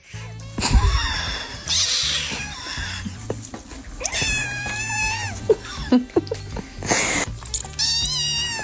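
A cat yowling: two long, drawn-out, wavering meows, one around the middle and one near the end, with short noisy bursts earlier, over background music.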